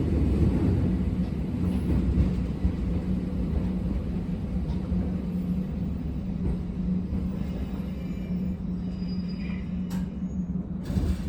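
On-board sound of an Abukuma Express 8100 series electric train running between stations: a steady rumble of wheels on the track with a low, steady hum. A single sharp knock comes near the end.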